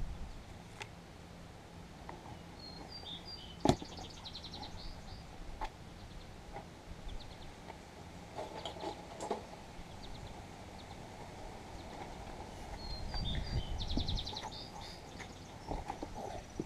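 A songbird sings the same short, high, trilled phrase twice, about ten seconds apart, over steady outdoor background noise. A sharp click about four seconds in is the loudest sound, with a few smaller clicks and a low rumble near the end.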